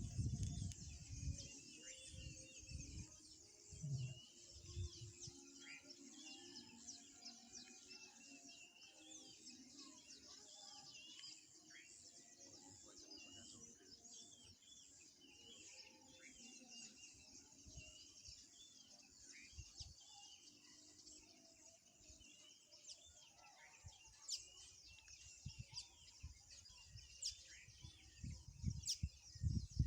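Wetland birds calling: many faint, overlapping short chirps and whistles over a steady high hiss, with a few low thumps near the start and the end.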